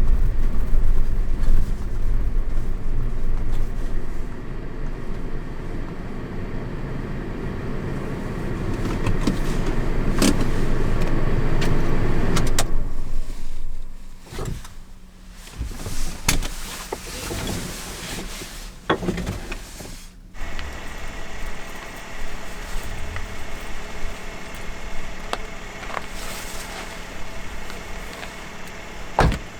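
Car sounds: a loud low rumble for about the first dozen seconds, which drops away, then a run of knocks and clicks, then a quieter steady hum with a few more clicks near the end.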